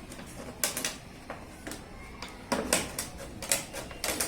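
Scissors snipping through an empty plastic bottle: a string of sharp, irregular snips, about two a second.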